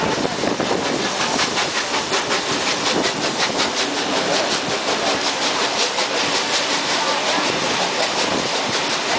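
Vintage train running along the track, heard from an open carriage doorway: a steady rush of wheel and wind noise with a fast, even ticking beat that sets in about a second in.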